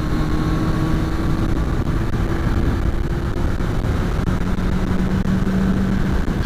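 Motorcycle engine running on the move, a steady drone whose pitch rises slowly, under a constant rush of low road and wind noise.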